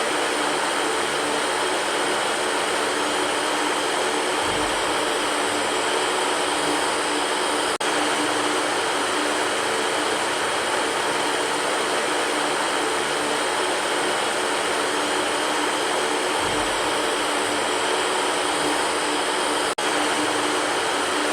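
Electric fan running steadily: an even whoosh of moving air with a faint motor hum beneath it. It cuts out for an instant twice, about 8 s and 20 s in.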